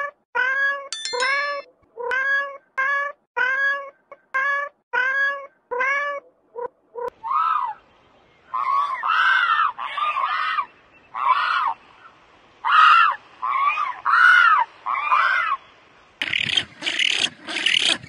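A cat meowing over and over, about two short meows a second, for the first seven seconds. From about eight seconds in comes a run of higher, longer calls that rise and fall, and a dense, rough noisy sound starts near the end.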